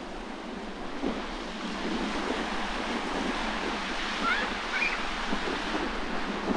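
Sea waves washing against the shore, with strong wind buffeting the microphone. Faint short high chirps show up about four to five seconds in.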